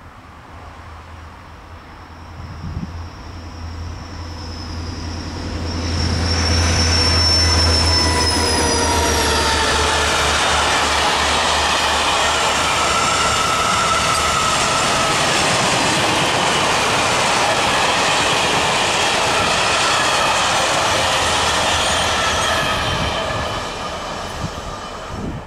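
A diesel locomotive approaches with a low engine drone, louder from about 6 s in. A long train of flat freight wagons then rolls past with steady wheel rumble and high-pitched squealing wheel tones, fading near the end.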